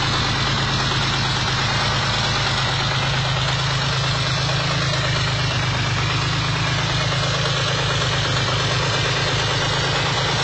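Volkswagen VR engine, built to 3.75 litres and turbocharged, idling steadily and calmly shortly after a cold start, with nothing weird in its sound.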